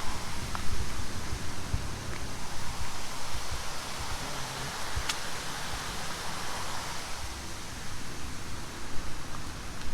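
Steady rushing noise with an uneven low rumble, and a single sharp click about five seconds in.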